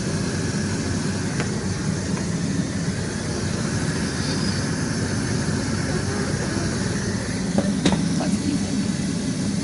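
Steady rumble and rush of an airliner in flight, heard inside the aircraft lavatory, with a small click or knock about eight seconds in.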